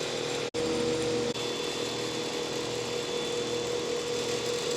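Steady mechanical hum and hiss with a faint high whine, cut off for an instant about half a second in.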